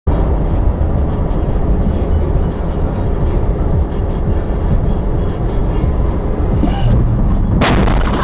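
Steady, loud rumble of a vehicle on the move, heard through a dashcam's microphone. About seven and a half seconds in, it changes abruptly to a brighter, sharper sound.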